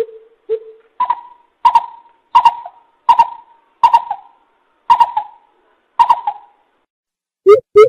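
Greater coucal calling in a series of deep hoots. Two low notes come first, then higher notes about every two-thirds of a second, and a quicker run of low hoots starts near the end.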